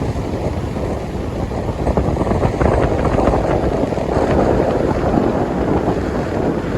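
Strong wind buffeting the microphone in a continuous, gusty rumble, with the wash of ocean surf mixed in.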